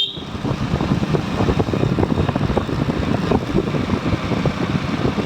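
Motorcycle ride with heavy wind rumble on the microphone and the engine running underneath.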